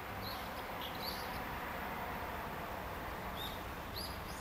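Small birds chirping in two short bursts of high chirps, near the start and near the end, over a steady low rumble from a train approaching in the distance.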